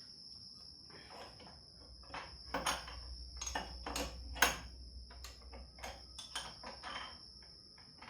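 Irregular metallic clicks and knocks from a wrench turning a pulley puller on a power steering pump pulley, the loudest about four and a half seconds in.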